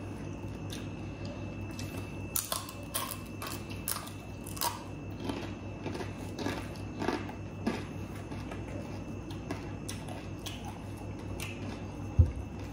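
Close-up mouth sounds of people chewing food, with a run of crisp, crackly crunches in the first half over a steady low hum. A single loud thump near the end.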